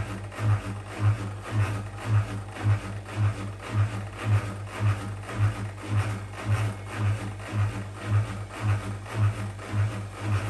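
Whirlpool WWDC 7440 front-loading washing machine running its spin program before the fast spin: a low, quite loud hum that swells about twice a second as the drum turns.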